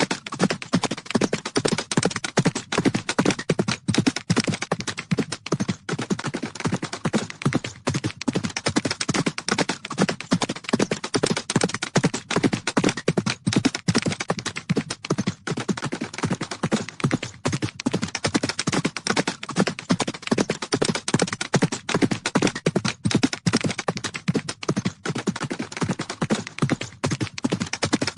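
Horses galloping: a dense, unbroken drumming of hoofbeats on the ground.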